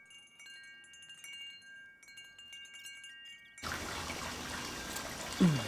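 Faint, steady, chime-like ringing tones, like wind chimes, over a very quiet background. A little over halfway through, a broad outdoor background hiss abruptly cuts back in.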